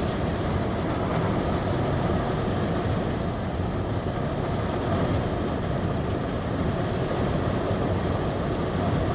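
Heavy rain pounding steadily on a vehicle's roof and windows, heard from inside the cabin as a dense, even rumble.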